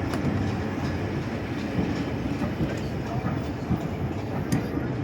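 Class 27 diesel locomotive with its passenger train, running as a steady heavy rumble with a few sharp clicks from the rails.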